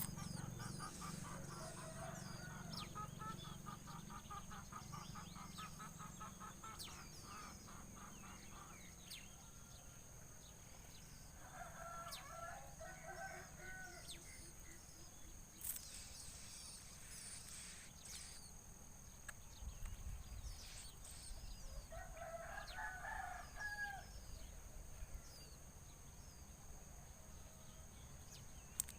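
A rooster crows twice in the background, about twelve and twenty-two seconds in, each crow lasting two seconds or so. Before the first crow there is a fast run of short repeated notes for several seconds, and a steady high-pitched tone runs underneath.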